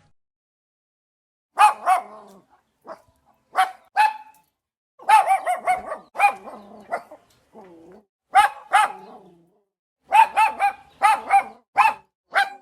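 A dog barking: short, high barks, some single and some in quick runs of two to five, with pauses between them.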